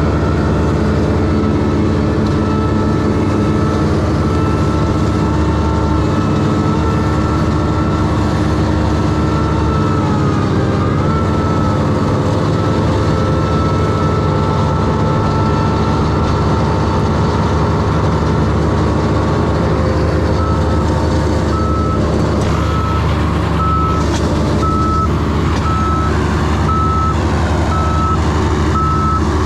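Heavy truck or machine engine running steadily. About two-thirds of the way in, a backup alarm starts beeping about once a second as it reverses.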